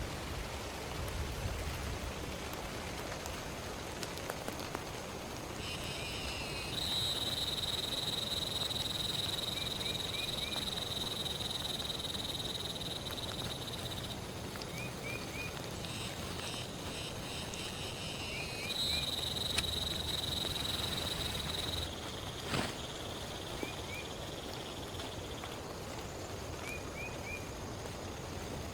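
Steady rain falling on the forest and tent. A high, steady buzzing animal call sounds twice, first for about seven seconds and then for about three, over the rain, with short high chirps now and then and one sharp tick a little after the second buzz ends.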